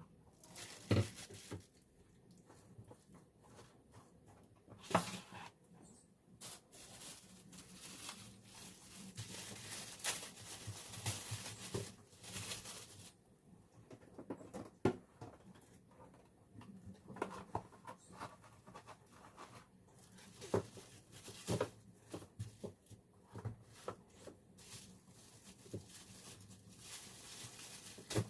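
Food-preparation handling sounds: irregular clicks, knocks and rustling as things are handled and packed, with a faint steady hum underneath.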